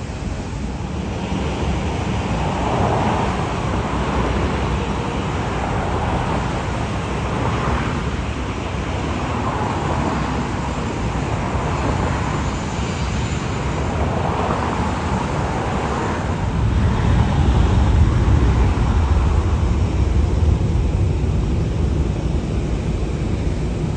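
Jet airliner engines passing close by, a steady rushing roar with a deep rumble that swells about two thirds of the way through.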